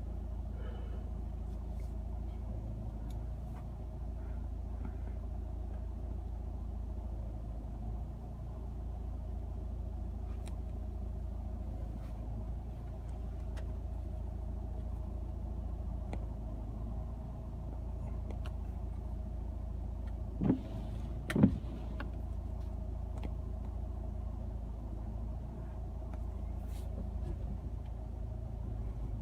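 Car driving slowly with a steady low engine and road rumble. Two sharp knocks about a second apart come roughly two-thirds of the way through and are the loudest sounds.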